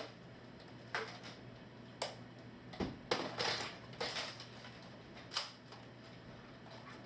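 Toy foam-dart guns being fired and worked: a handful of short, sharp plastic clacks at irregular intervals.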